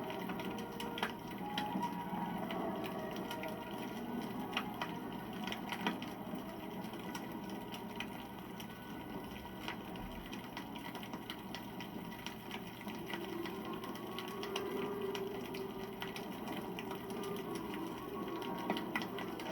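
Wood campfire burning: a steady low rush of flame with irregular crackles and sharp pops from the burning wood.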